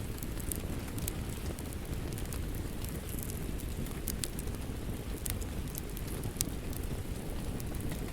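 Wood fire crackling, with irregular sharp pops and snaps over a steady low rumble, mixed with a rain ambience.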